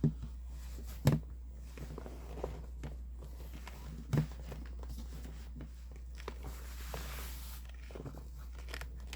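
Faint rustling and a few soft knocks from hands handling a piece of cross-stitch fabric, over a steady low hum.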